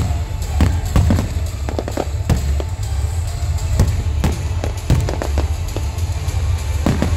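Aerial firework shells bursting in a rapid string of loud bangs, about two or three a second, during a display's busy finale.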